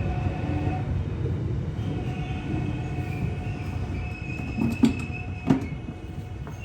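Train running on the tracks: a low rumble with steady high whining tones, slowly fading, and two sharp clacks of wheels over the rails about five seconds in.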